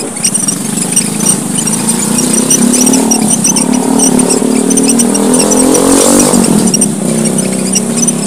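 A busy chorus of small finches (emprit merah papua, pipit merah) chirping in quick, high-pitched bursts. A motor vehicle's engine grows louder over it, peaks about six seconds in and fades as it passes.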